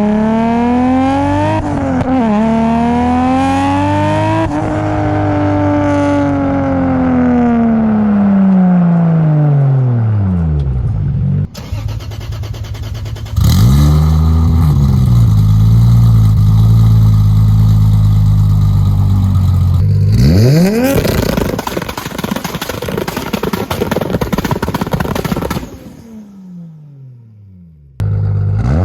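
Toyota Supra MK4's turbocharged straight-six revving hard: the pitch climbs, then falls away in a long slow drop. After a cut the engine is held on the two-step launch limiter at a steady pitch for several seconds, then revs sharply upward into a loud, rough pull.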